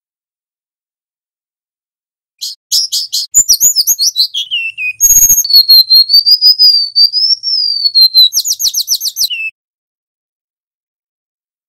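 Golden-bellied gerygone (remetuk laut) singing: a quick run of high repeated notes, falling whistled slurs, then one long wavering high whistle and another fast run of notes ending in a short downslur. The song starts about two and a half seconds in and stops after about nine and a half seconds, with a short crackle near the middle.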